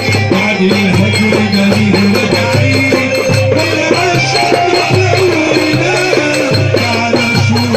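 Instrumental Egyptian folk music from a Port Said simsimiyya band: a melody line over a steady pulsing bass beat, with shaken percussion.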